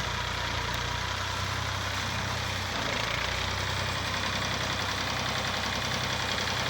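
Massey Ferguson 240 tractor's three-cylinder diesel engine running steadily, a little louder about three seconds in.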